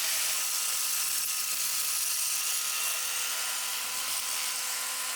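RIPPA RS06-2 skid steer loader working with its land clearing attachment: a steady high-pitched machine whine with strong hiss that cuts off abruptly at the very end.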